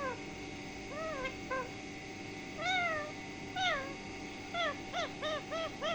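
Pet green parrot giving a series of short meow-like calls, each rising and then falling in pitch, spaced out at first and then coming quickly, about three a second, in the second half.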